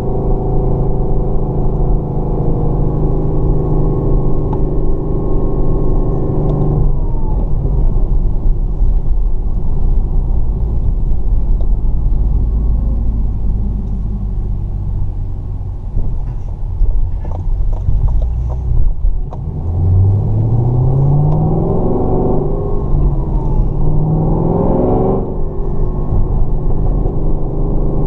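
Supercharged 6.2-litre V8 of a Chevrolet Camaro ZL1, heard from inside the cabin while driving. It holds a steady cruising note, eases off to a low rumble about seven seconds in, then pulls with the pitch climbing for several seconds. Near the end the pitch drops sharply at a gear change and the engine settles back to a steady cruise.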